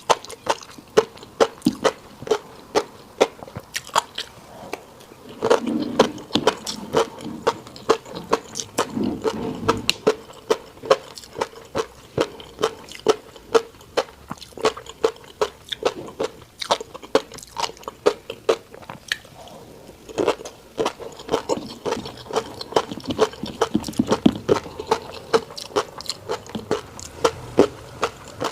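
Chewing a fish roe rice bowl: a steady run of sharp, clicky pops and mouth smacks, about three or four a second, with a few brief low sounds from the mouth or throat in between.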